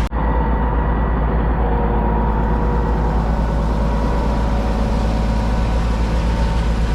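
Steady low rumble of a concrete boom pump truck's engine running, with heavy wind buffeting the microphone.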